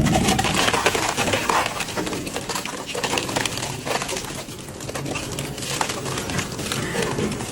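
Heavy metal shredder tearing through an engine: a dense, irregular crunching and cracking of metal breaking under the cutters.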